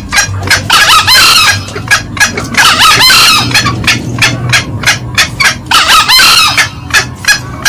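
Green junglefowl calls: a rapid series of short, sharp clucking notes a few times a second, broken three times by longer, louder crowing calls. A male crowing over a hen's cackling.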